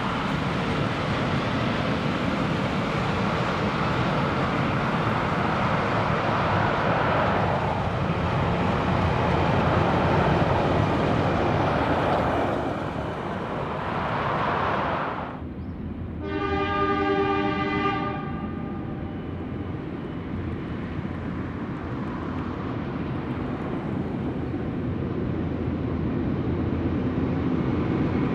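A train running past on the rails and receding, a steady rumble, then one long whistle from the train lasting about two seconds about halfway through, followed by a quieter steady rumble.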